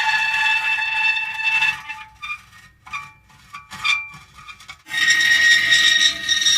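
Metal creaking: long, steady, high squeals, broken for a few seconds by short squeaks and ticks, then a long squeal again about five seconds in.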